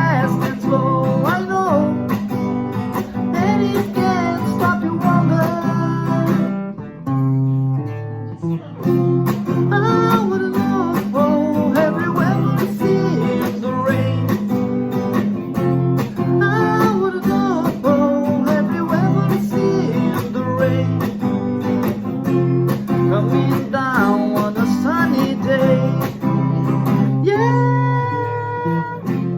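Strummed guitar music with a gliding melody line over the chords, an instrumental break between sung verses.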